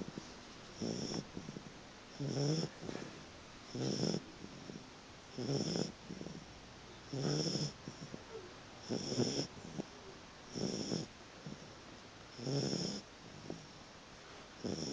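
A puppy snoring in its sleep, with an even rhythm of short snores roughly every second and a half to two seconds.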